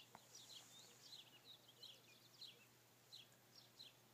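Faint chirping of small birds: scattered short, high chirps, about two or three a second, over quiet outdoor background hiss.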